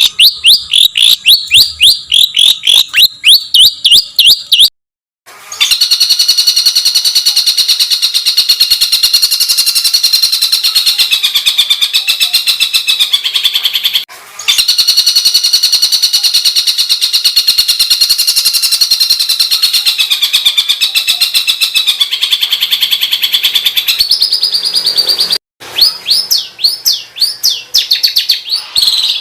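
Caged songbird's harsh, rapid 'tembakan' song, used as masteran training audio: fast repeated chirps, then a long, dense, buzzy trill that plays twice, then fast chirps again. The sound cuts out abruptly three times, as edited, looped recordings do.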